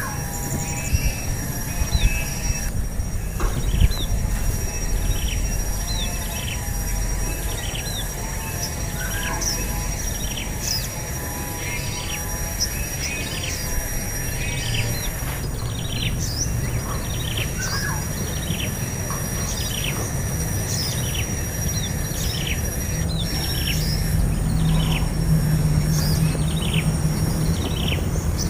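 A bird calling in a run of short, quick falling chirps, about two a second, over a steady high whine and a low background rumble.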